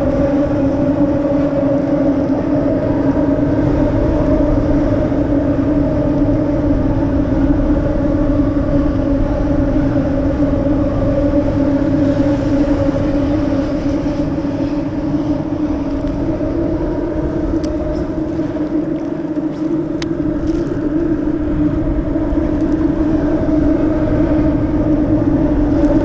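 Boat motor running steadily with an even, unchanging drone.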